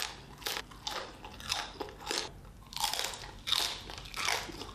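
Mouth crunching and chewing crispy roast pork skin, a string of sharp, irregular crunches about two a second.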